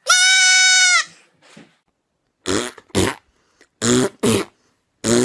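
A young goat kid bleats once, a single steady high-pitched call of about a second. From about two and a half seconds in come short, raspy blurts in pairs, repeating roughly every second.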